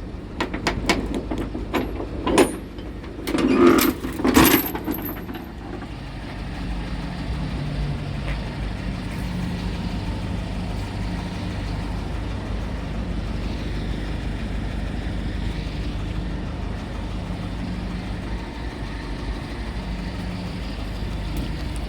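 A few sharp knocks and clacks over the first five seconds, then the diesel engine of a 2014 Kia Bongo 3 truck idling steadily.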